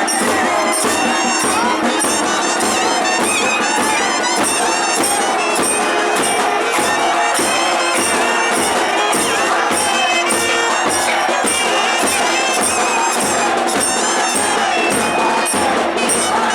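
Tamil temple procession music: nadaswaram, a loud double-reed pipe, playing a gliding melody over a steady beat on the thavil drum, with faint crowd noise underneath.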